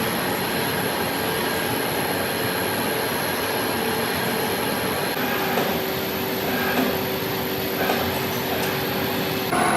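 Metal-cutting machine tool running steadily, with a constant noise and thin high whining tones that shift pitch about five seconds in and again near the end.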